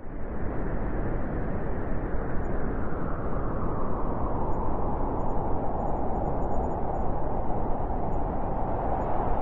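Strong wind blowing through a forest in a snowstorm: a steady, dense rushing noise.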